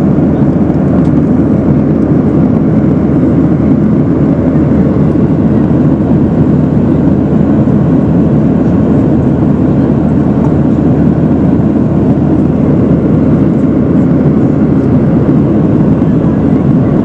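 Steady airliner cabin noise in flight: an even, unchanging rush of engine and airflow noise, mostly low in pitch.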